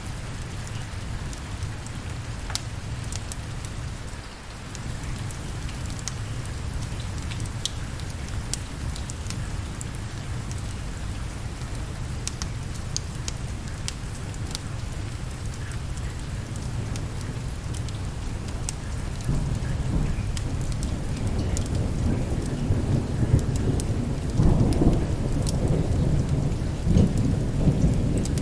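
Steady rain with scattered sharp ticks, and a roll of thunder that builds about two-thirds of the way in and rumbles louder toward the end.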